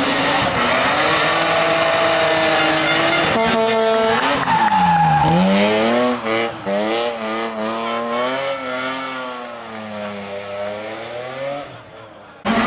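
Rally car engines at high revs, the pitch rising and falling with throttle and gear changes, the sound breaking off briefly several times in the middle as the throttle is lifted. The engine note then fades away as a car drives off, and the sound cuts off suddenly near the end.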